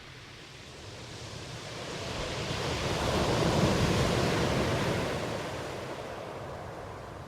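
Ocean wave washing in: a steady hiss of surf that swells to a peak a few seconds in, then draws back and fades.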